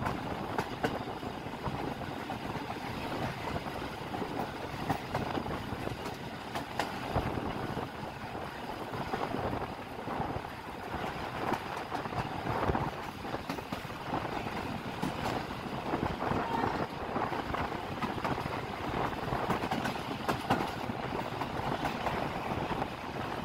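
Passenger train coaches running along the track, heard from a window of the moving train: a steady rumble of wheels on rails, with frequent clicks and knocks from the wheels passing over the rail joints.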